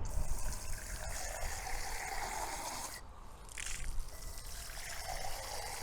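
Water running from a garden hose through an inline deionizing filter and trickling out of its end: the new filter is being flushed before use.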